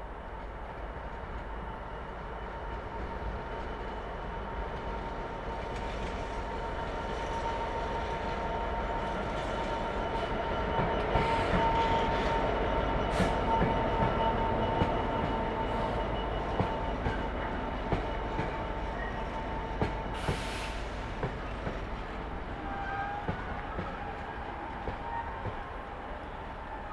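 A train passing through the station, growing louder and then fading, with its wheels clicking over rail joints and a steady high whine underneath.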